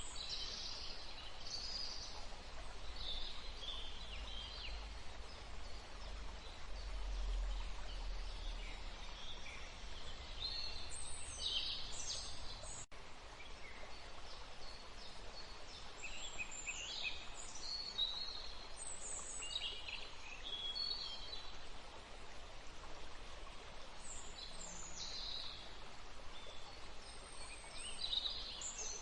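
Small birds calling and singing in short, scattered chirps and trills over a steady background hiss of a forest, with a brief break in the sound about halfway through.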